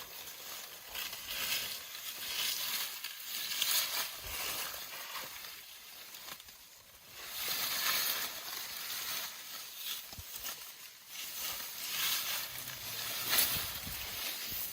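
Leafy branches rustling and crackling in uneven waves as elephants grab at and chew them.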